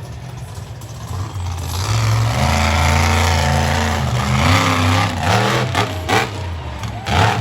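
Monster truck engine revving, rising in level about two seconds in and then swinging up and down in pitch with the throttle, with a few sharp cracks near the end.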